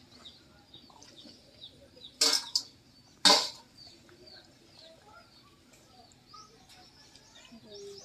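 Small birds chirping faintly and continually, broken by two loud, brief noisy sounds about two and three seconds in.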